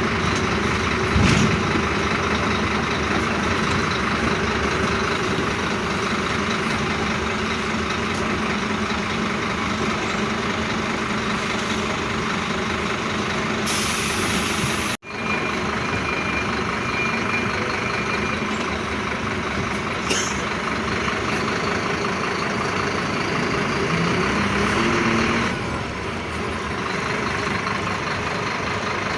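Scania bus diesel engine running steadily. There is a brief high hiss about halfway through, and the engine eases off near the end.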